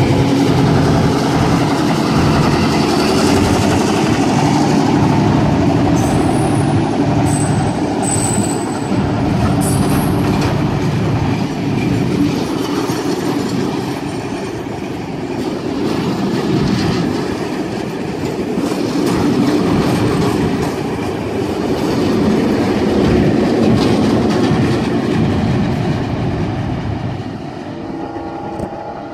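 A heritage passenger train passes close by: a diesel locomotive engine running at first, then the carriages rolling past with wheels clattering over the rail joints. There are short high-pitched wheel squeals a few seconds in, and the sound fades near the end as the train moves away.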